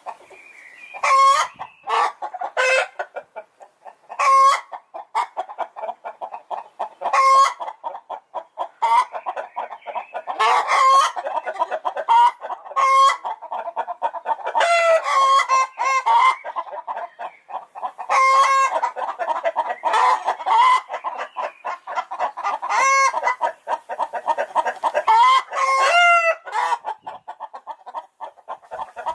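A flock of chickens calling: loud, short squawking calls every second or two over a continuous background of clucking.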